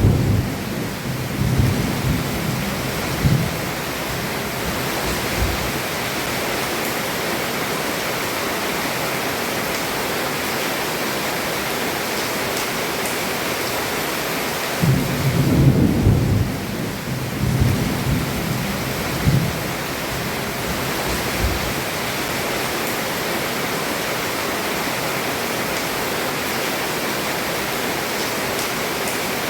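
Heavy rain falling steadily on a roof, with thunder rumbling low twice: once at the start and again about halfway through.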